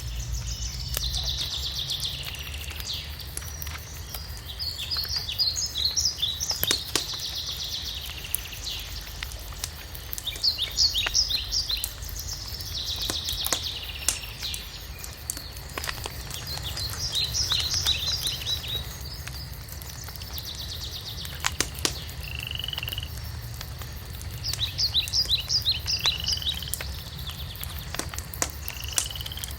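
A songbird singing short phrases of rapid high notes, repeated every few seconds, over a wood fire crackling with scattered sharp pops and a steady low rumble.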